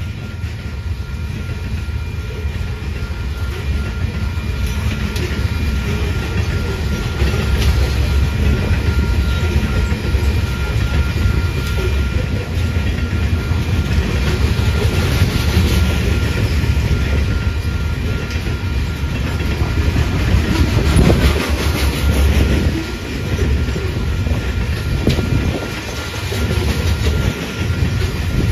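Freight cars rolling past close by: a steady rumble of steel wheels on rail with repeated clicking over the rail joints, and a faint, thin steady high tone above it.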